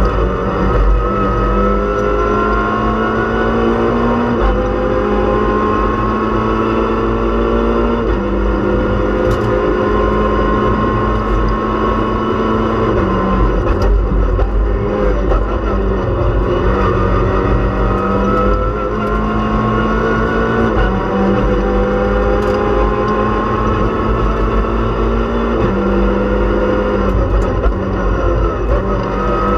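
Peugeot 206 RC rally car's four-cylinder engine heard from inside the cabin under hard acceleration, its pitch climbing through each gear and dropping at each of several gear changes, over steady road and tyre rumble.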